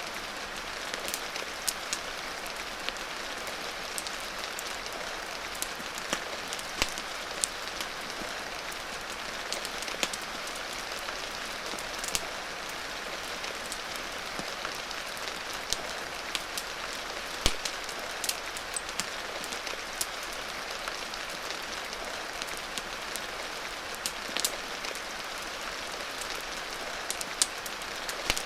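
Steady rain hiss with a wood fire crackling, its sharp pops scattered irregularly throughout.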